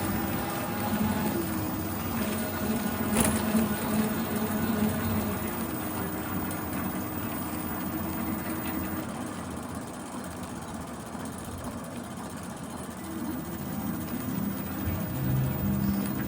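Bicycle being ridden, with a steady mechanical whirring from the bike itself: an annoying noise from the drivetrain or wheels that needed maintenance and was fixed afterwards.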